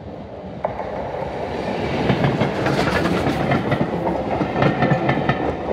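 Train running on rails: a heavy rumble with rapid clattering of the wheels, growing louder over the first two seconds and then holding steady.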